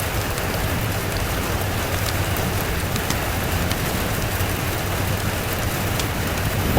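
Steady, even rainfall, with scattered faint sharp ticks throughout.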